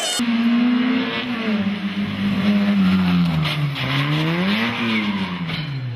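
Rally car engine running hard, its pitch falling as the revs drop, rising again in a brief blip about four and a half seconds in, then falling away.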